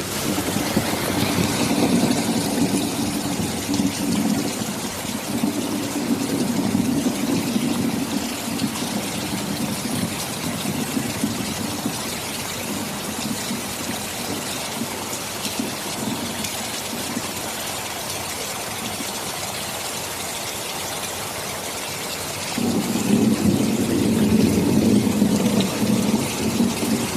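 Steady heavy rain with low rolling thunder: a rumble through the first dozen seconds that fades away, then a fresh roll of thunder coming in suddenly about 22 seconds in.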